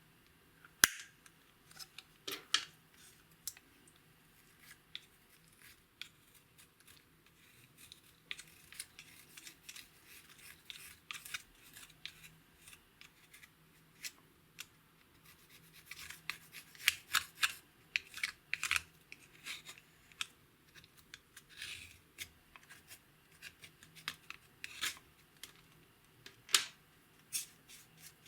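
Clear slime being worked by hand, with irregular sticky clicks and pops, thicker in the second half.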